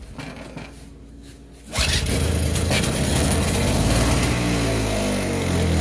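Toro CCR2500 snowblower's 5 hp two-stroke engine bursting into life about two seconds in on starting fluid sprayed into the carburetor air intake, then running loudly with its speed wavering. It runs on the spray, which points to a fuel-delivery fault in the carburetor rather than a spark problem.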